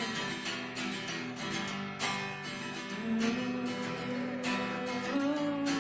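Acoustic guitar strummed in an instrumental break between sung lines, with a held melody line sliding slowly above the chords.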